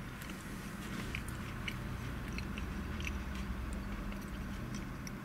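A man chewing a mouthful of vegan cheeseburger close to the microphone, with many small wet mouth clicks, over a low steady hum.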